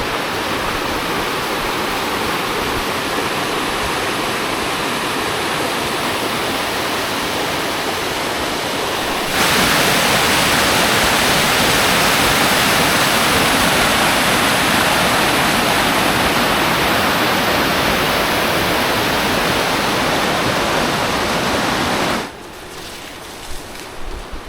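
Waterfall rushing steadily in a loud, even roar of water. It gets suddenly louder about nine seconds in and drops off abruptly near the end.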